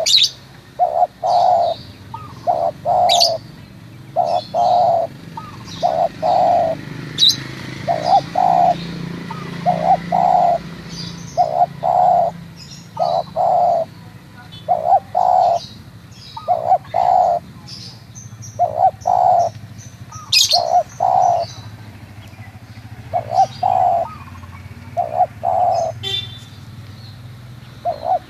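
Spotted dove (tekukur) cooing over and over in short phrases of two or three low coos every couple of seconds, with small birds chirping thinly in the background.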